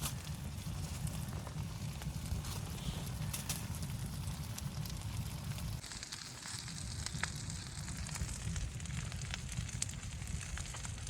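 Wood fire crackling with scattered sharp pops over a steady low wind rumble; a high hiss grows louder about halfway through.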